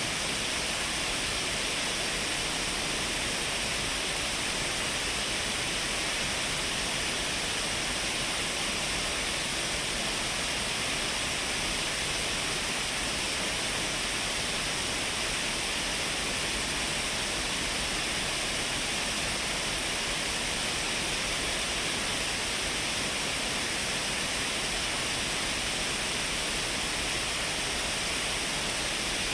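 Shiraito Falls, a wide curtain waterfall, making a steady, unchanging rush of falling water.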